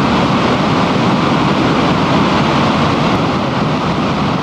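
Floodwater pouring over Matilija Dam with its gates and valves open: a loud, steady rush of water.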